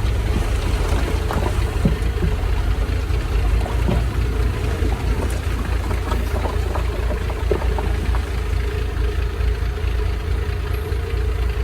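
Heavy machine engine running steadily at low revs, with scattered light clanks and ticks.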